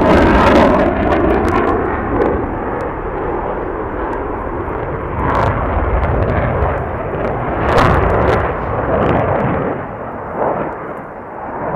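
Military jet flying past, its engine noise falling in pitch just after it passes, then a long rumbling, crackling roar that slowly fades as it moves away.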